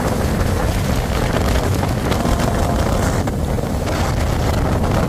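Wind rushing over the microphone at the open door of a moving express train, with the steady rumble of the train running along the track.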